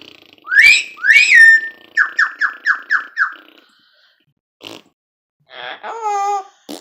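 Double yellow-headed Amazon parrot calling: two loud rising whistles, then a quick run of about six short falling notes at roughly five a second. Near the end comes a shorter, wavering pitched call.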